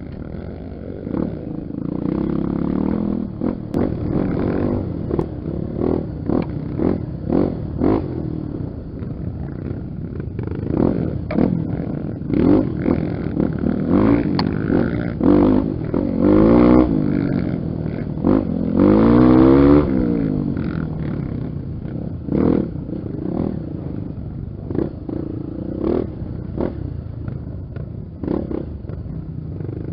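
Honda XR 250 Tornado's single-cylinder four-stroke engine being ridden on a dirt trail, the throttle opened and closed over and over. It makes short blips of revving, with a few longer rises in pitch about halfway through.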